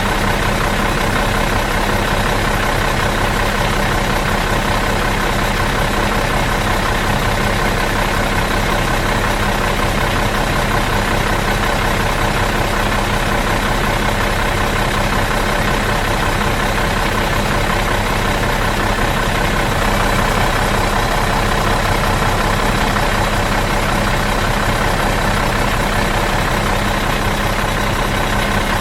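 Bus engine idling steadily out of gear, an even, unchanging drone.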